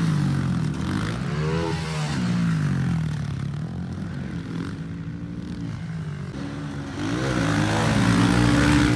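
Pit bike engine revving up and falling back again and again as it rides the track, the pitch climbing and dropping every second or two, loudest near the end.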